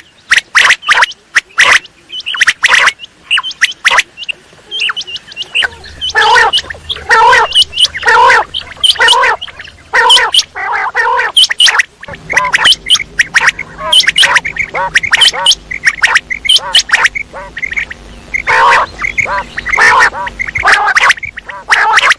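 Quail calling: a rapid, near-continuous series of short, harsh calls from several birds, overlapping, with a faint low hum underneath from about six seconds in.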